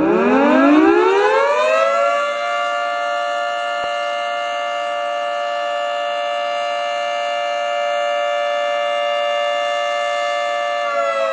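Federal Signal Thunderbolt 3T22A outdoor warning siren winding up over about two seconds to a steady two-tone wail, held until near the end, when the pitch starts to wind down. This is its noon blast, a test run after repairs.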